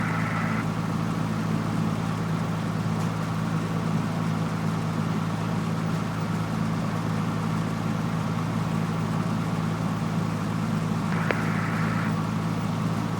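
Cessna 172F's six-cylinder Continental O-300 engine running steadily at low taxi power, heard as an even drone inside the cabin.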